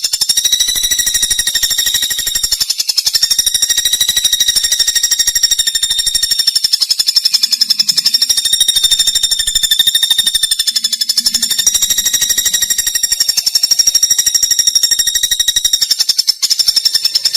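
A continuous, fast, high-pitched buzzing trill with a slight waver in pitch, played as a master recording for teaching captive songbirds to sing.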